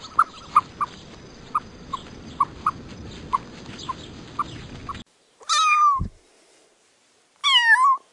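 A kitten meowing twice, two short high calls that fall in pitch, about two seconds apart. Before them comes a few seconds of steady outdoor hiss with short, repeated chirps, which cuts off abruptly.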